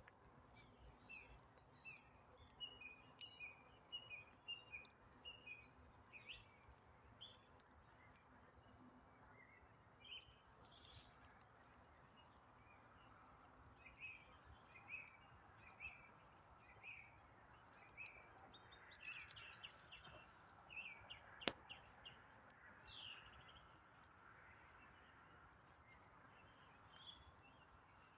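Faint birdsong: songbirds chirping in short repeated phrases, over a low background hiss, with a few sharp crackles from a wood campfire, one louder snap about 21 seconds in.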